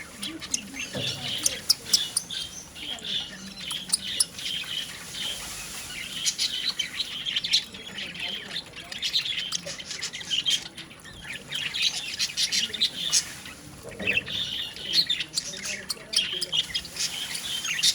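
Budgerigar chirping and chattering in a fast, warbling run of short calls, with a couple of brief pauses.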